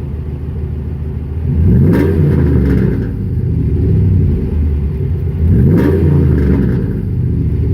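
2003 Dodge Ram 2500's exhaust through a new Flowmaster Series 50 muffler: the engine idles and is revved twice, about a second and a half in and again near six seconds. Each time the pitch rises, then falls back to idle.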